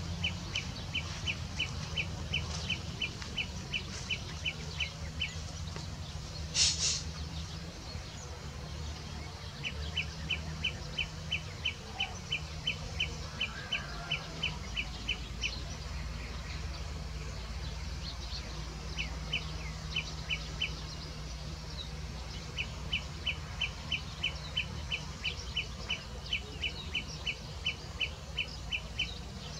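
A bird calling in runs of short, evenly spaced high chirps, about three to four a second, over a low steady hum; about six and a half seconds in, a brief, louder, harsher call cuts across.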